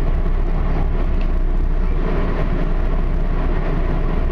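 Steady low rumble of an Expo Line light-rail train running along the track.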